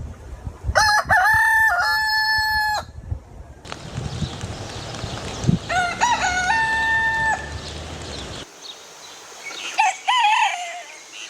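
Roosters crowing: a full cock-a-doodle-doo about a second in and another around the middle, each ending in a long held note, then a shorter crow near the end.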